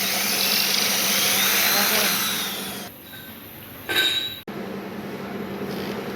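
Hand-held electric power tool, drill-like, running under load with a whine that shifts in pitch, stopping about three seconds in. It runs again briefly about a second later, then a quieter steady machine hum remains.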